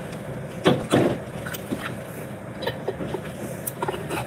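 Chewing on a pickle close to the microphone, with a few sharp clicks and knocks from a glass pickle jar being handled. The two loudest knocks come about a second in.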